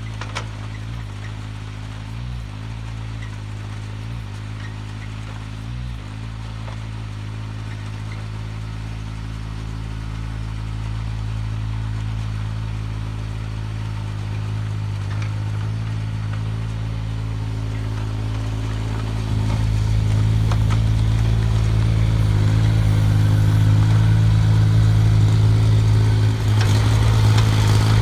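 Mini excavator engine running steadily; it gets louder about two-thirds of the way through.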